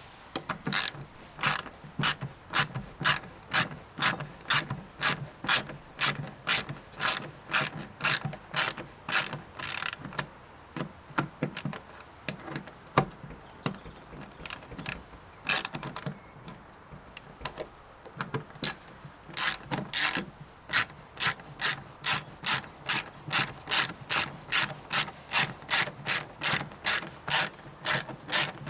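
Hand ratchet wrench clicking in steady strokes, about two clicks a second, undoing small bolts, with a couple of short pauses partway through.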